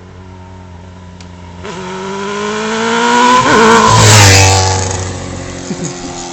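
Motorcycle passing by at speed: the engine note grows louder as it approaches, peaks about four seconds in with a drop in pitch as it goes past, then fades away.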